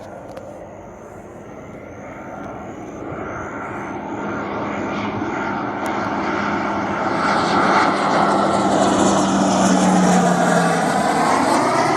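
Aircraft engine growing steadily louder as a plane approaches and passes close by, with a steady hum that drops away about eleven seconds in.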